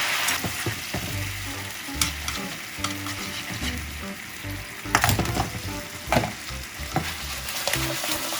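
Food sizzling in a hot pan while being stirred, with the sizzle loudest at the start, and a utensil scraping and knocking against the pan a few times, most strongly about five seconds in.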